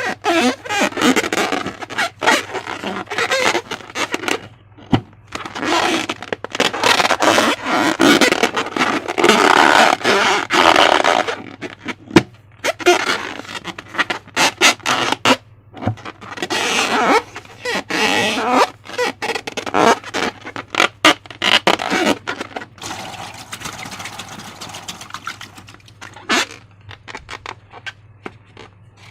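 Slime-making materials and balloons handled right at the microphone: irregular squelching and scraping with many sharp clicks, fading off near the end.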